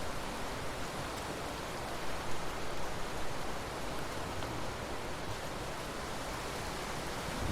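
Steady rain falling, an even hiss with no distinct drops or thunder claps.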